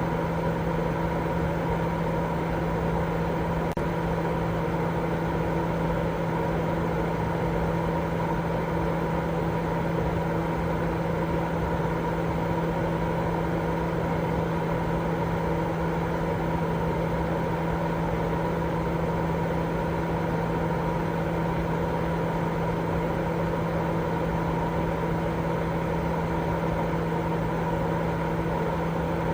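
Continuous white noise for baby sleep: an unchanging hiss with a steady low, machine-like hum running through it.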